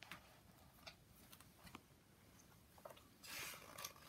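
Faint handling of a paper picture book, with soft clicks and a brief louder rustle of pages near the end.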